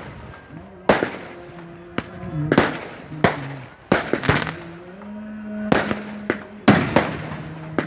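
Fireworks going off in a quick irregular series of about ten sharp bangs, with a steady pitched sound, likely music, between them.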